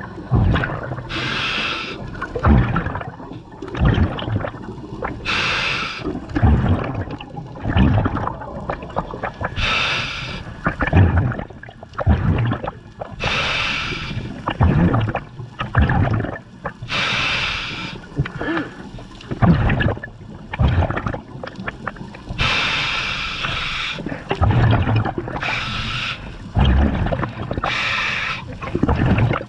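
A scuba diver breathing through a regulator underwater: a hiss on each inhale, about every four seconds, with gurgling exhaled bubbles in between.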